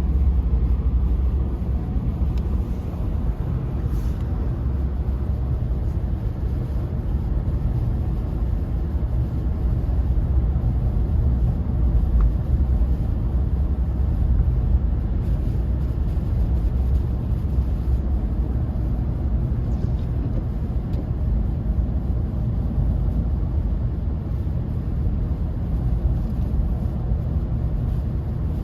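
Steady low rumble of a car driving on a snow-covered, icy road, heard from inside the cabin: tyre and engine noise.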